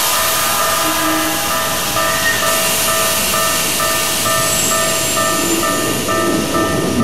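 Japanese level-crossing warning bell ringing about twice a second while a Keikyu train passes close by, its wheels and running gear making a loud, steady rushing noise.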